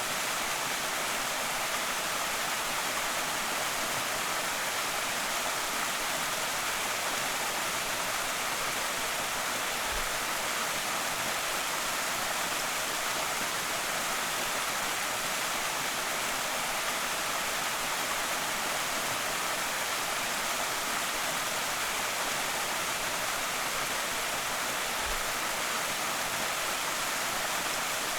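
Small creek waterfall pouring and splashing steadily, an even rushing hiss with no change in level.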